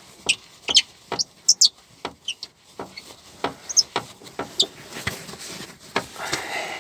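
Irregular sharp metallic clicks, about a dozen over several seconds, with short high chirps among them, as the nut on the VAZ-2114's alternator pulley is worked off by hand; the pulley's seat is worn loose, the cause of the engine knock.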